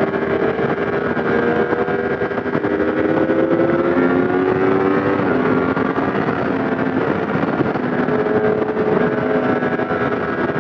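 Yamaha MT-10 motorcycle with an SC Project exhaust running on the road under steady throttle, its engine note slowly rising, dropping about halfway through, then climbing again, over a steady rush of wind.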